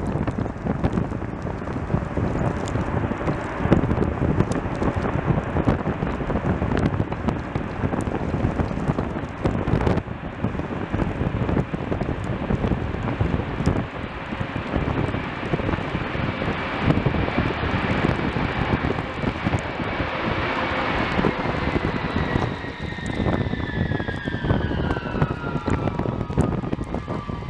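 Strong wind buffeting the microphone, with the whine of an Ilyushin Il-76's four turbofan engines growing from about halfway through. Near the end the whine drops in pitch as the aircraft passes on its landing approach.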